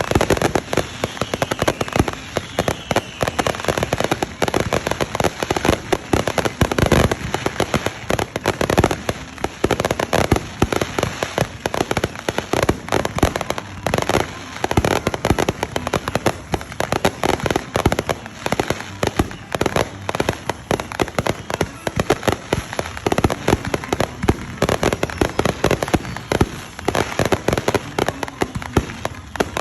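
Fireworks going off in a dense, unbroken run of sharp pops and crackles, many a second, with louder bangs scattered among them.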